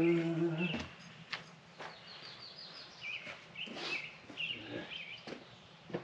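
Small birds chirping again and again, with a quick falling trill about two seconds in, over scattered light clicks and knocks. A short low hum opens it.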